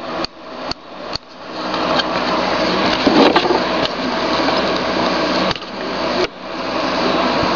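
Steady hiss of white noise, interrupted by a few sharp clicks in the first second and a half and again near the end, each followed by a brief drop in level that then recovers.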